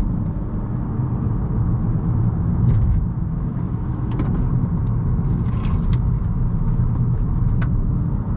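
A 2018 Honda Accord 1.5T with its turbocharged four-cylinder and CVT, driven briskly through tight hairpins. The car gives a steady low rumble of engine and road noise, with scattered light ticks over it.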